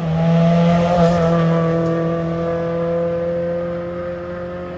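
Rally car engine running hard at high, fairly steady revs as the car passes, loudest about a second in and then slowly fading as it pulls away.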